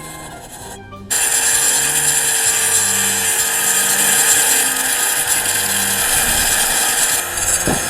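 Arc welding on the steel clutch cable hook of a VW Beetle pedal cluster, building up the worn, elongated hook. A steady, loud crackling starts suddenly about a second in, runs for about six seconds and stops near the end.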